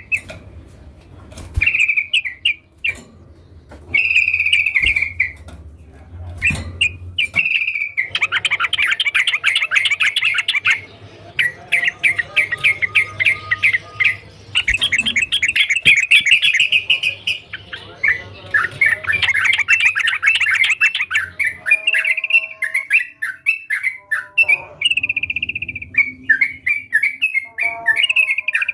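Yellow-vented bulbul singing: short bubbling phrases at first, then a long run of rapid chattering notes from about 8 to 21 seconds in, then separate phrases again near the end.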